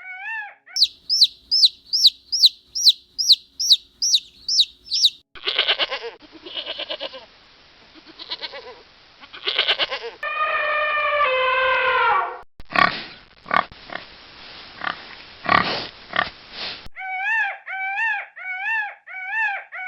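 A run of different animal calls in turn: a fast series of high, repeated calls, then noisy rasping sounds, a falling call, more noisy sounds, and a quick series of arched calls near the end.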